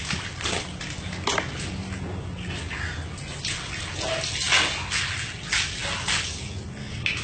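Irregular splashing and sloshing of water, over a steady low hum.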